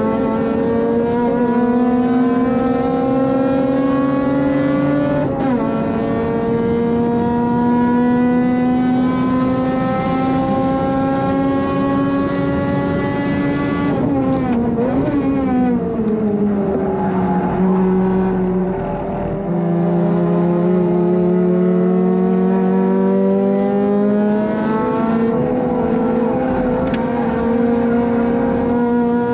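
Honda Civic FD2's engine heard from inside the car at racing speed: it revs up through a gear with a quick upshift about five seconds in. About halfway through the pitch drops sharply as the car brakes and shifts down, then it climbs again as the car accelerates out.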